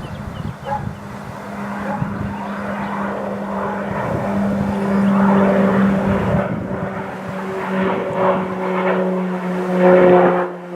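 Military aircraft engine noise: a steady drone with a humming tone over a rushing haze, swelling about halfway through and again near the end.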